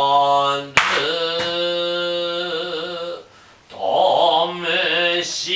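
Long, drawn-out held vocal calls in a Noh style, with two sharp kotsuzumi drum strikes about a second in.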